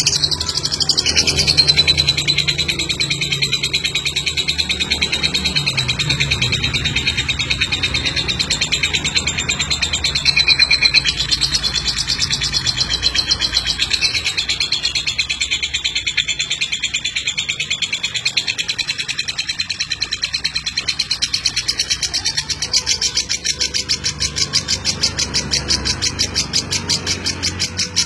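Lovebird chattering in one long unbroken run of rapid, high, pulsed trills: the long 'ngeklek' song prized in contest lovebirds.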